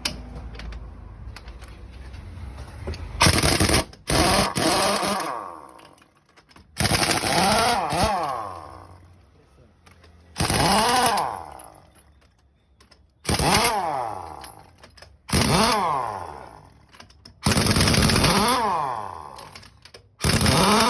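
Diesel truck engine revved in seven sharp throttle blips, each pitch rising quickly then falling back toward idle over a couple of seconds, with a low idle rumble in between.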